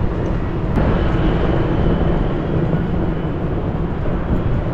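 Steady whooshing hum of a standing high-speed electric multiple-unit train, its cooling fans and air-conditioning running, heard from the platform beside it.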